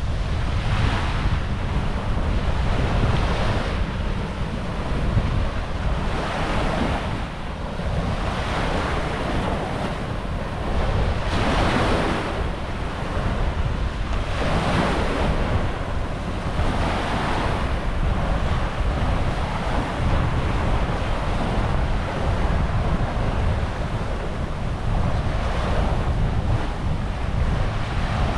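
Small waves breaking and washing up the beach, each swell of surf hiss rising and fading every two to three seconds, over a steady low rumble of wind on the microphone.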